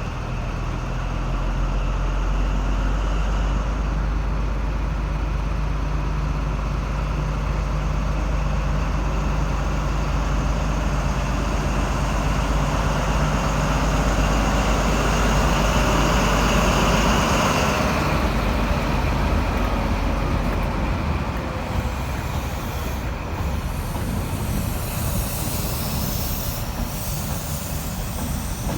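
Class 43 HST diesel power cars working as the train pulls away. The steady low engine note builds, then drops out suddenly about two-thirds of the way through, leaving a noisier rushing of wheels on rail.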